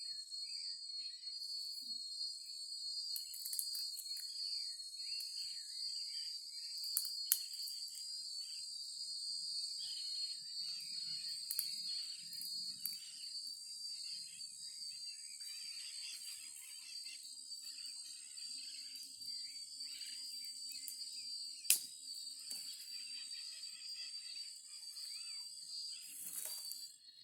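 Steady high-pitched chorus of insects such as crickets, with scattered faint crackles and a few sharp clicks, one about seven seconds in and one about twenty-two seconds in.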